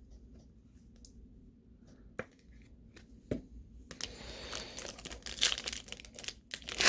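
A trading-card pack's plastic wrapper being torn open and crinkled, starting about four seconds in after a couple of faint taps.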